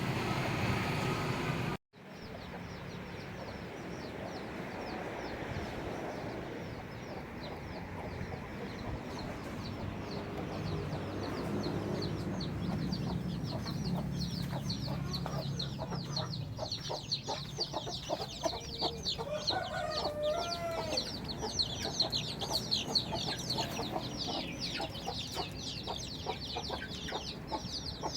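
Chicks peeping many times a second, short falling chirps that grow denser and louder after the middle, with one lower call about two-thirds of the way through.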